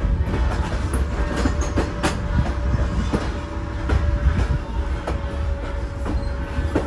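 Passenger train rolling on the rails: a steady low rumble with irregular clicks and knocks from the wheels and cars, and a faint steady tone running underneath.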